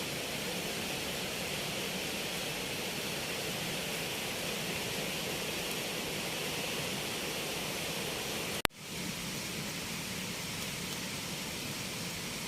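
Steady hissing background noise, broken by a single sharp click about nine seconds in, after which the sound drops out for a moment and comes back.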